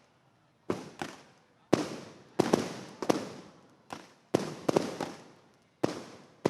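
Fireworks going off: about ten sharp bangs at irregular intervals, some in quick pairs, each trailing off in a fading echo.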